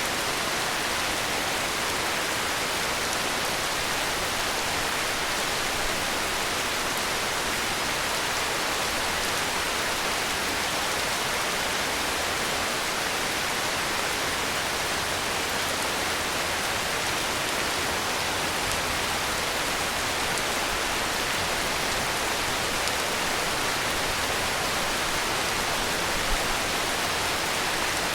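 Heavy rain falling steadily, an even hiss of rainfall with no thunder or other sounds.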